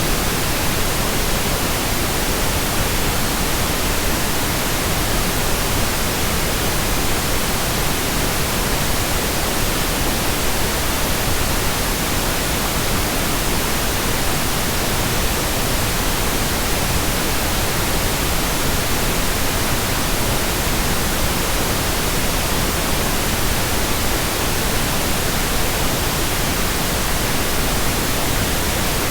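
Steady pink noise, an even, unchanging hiss across the whole range of pitch.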